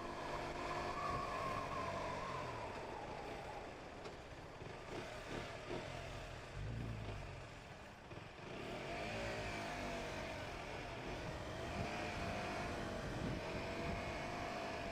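KTM RC 125's single-cylinder engine running under way, its revs rising and falling as the bike pulls away and eases off in traffic, climbing again about halfway through.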